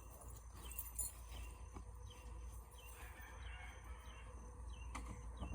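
Faint outdoor ambience: a steady low rumble with a small bird giving short, falling chirps every second or so.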